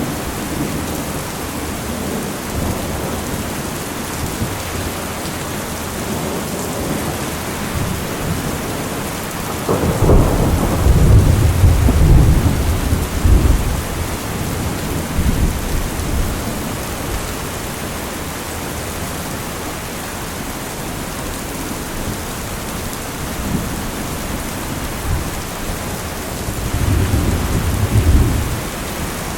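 Steady heavy rain with rolling thunder: a long low rumble about a third of the way in, and a shorter one near the end.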